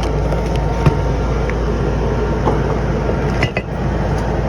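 Steady, loud machinery rumble with a low hum, with a few light clicks on top.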